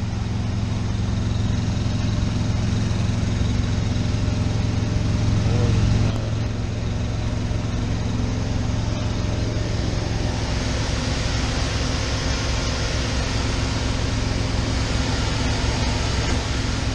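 Diesel semi-truck engine running steadily at idle, a constant low hum. A higher hiss grows about ten seconds in.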